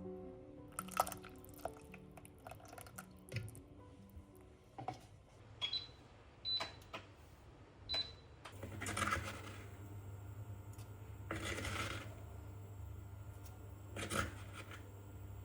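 Light clicks, knocks and small ringing clinks of household items being handled. About eight seconds in a low steady hum begins, with a few short swishing noises over it.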